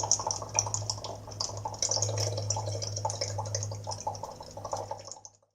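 Sound sculpture giving off irregular, water-like dripping and trickling over a steady low hum; it fades out shortly before the end.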